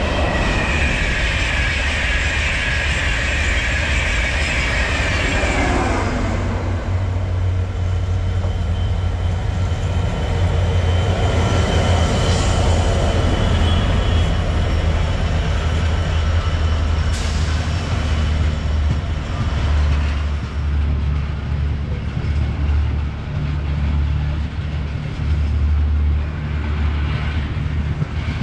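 Diesel-hauled freight train passing close by. The locomotive's high whine drops away over the first six seconds, then loaded hopper wagons rumble steadily past on the rails.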